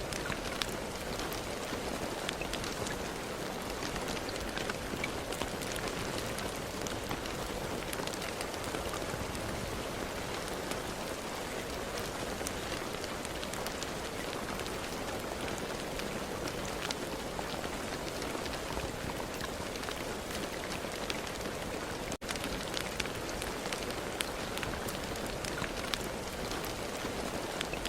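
Steady rain falling, an even hiss dotted with the small ticks of individual drops striking a surface. One split-second break about four-fifths of the way through.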